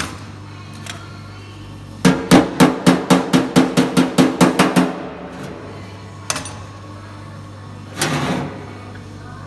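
A hammer beating sheet metal in a quick, even run of about fifteen blows, roughly five a second, each with a brief metallic ring. A single knock follows, then a short noisy burst near the end, over a steady low hum.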